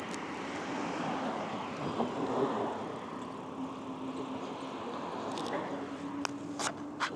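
Steady rolling noise of a bicycle ride on a town street, with a faint steady hum from about two seconds in and a few sharp clicks near the end.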